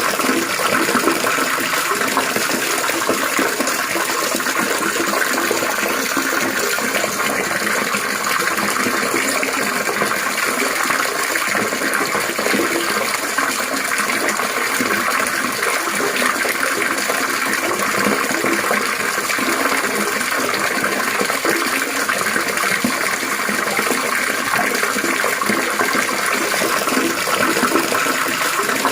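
Steadily trickling, splashing water, a continuous even flow with no pauses or changes.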